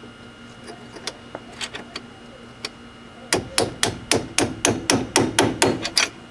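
A hammer striking a 1/4-inch chisel, driving a stuck screw out through the caliper hole on a wheel hub. A few light taps come first, then, about three seconds in, a quick run of about a dozen hard strikes, roughly four a second.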